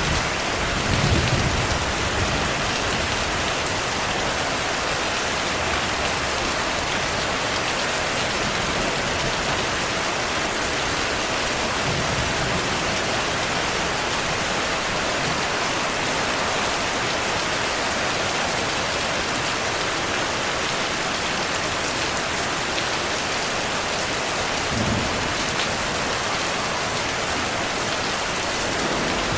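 Steady heavy rain falling, with brief low rumbles of distant thunder: the strongest about a second in, fainter ones around the middle and near the end.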